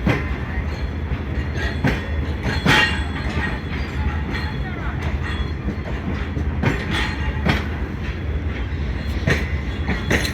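Passenger coaches rolling slowly over rail joints: a steady low rumble with sharp wheel clacks, often in pairs about a second apart, as the train draws into the station.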